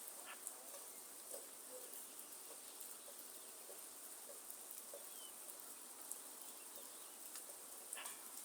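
Rain falling in a forest: a faint, steady hiss with scattered drips and taps on leaves, and a single brief bird chirp about four seconds in.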